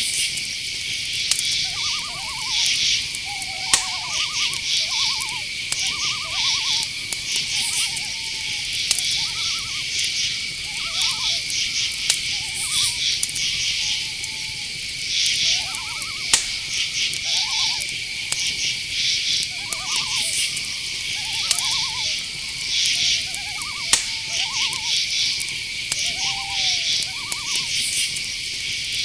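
Night-time chorus of crickets and other insects: a steady high trill with pulsing chirps above it. Many short hooting calls from owls repeat every second or so through it. A few sharp clicks stand out, about 4, 16 and 24 seconds in.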